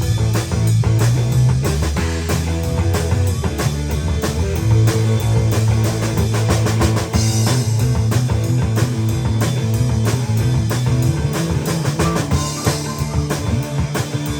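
Rock band playing an instrumental passage: drum kit keeping a steady beat under a sustained low bass line and guitar.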